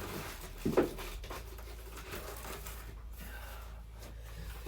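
Handling noise from a plastic toy figure and its packaging: rubbing and scratching, with one brief louder sound about a second in.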